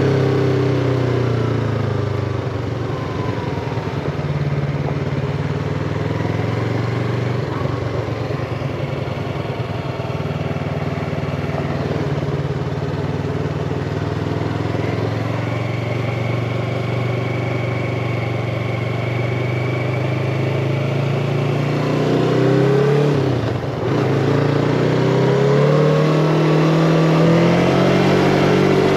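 Yamaha MT-25's parallel-twin engine running under way, with a steady rushing noise beneath it. The revs ease off at the start and hold fairly steady, drop sharply for a moment about 23 seconds in, then climb again near the end.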